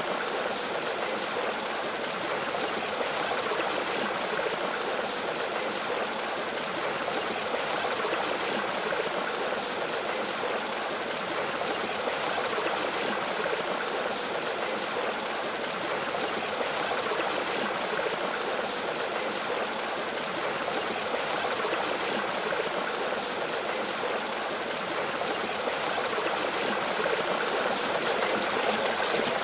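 Mountain stream flowing over rocks with a small waterfall: a steady, even rush of water.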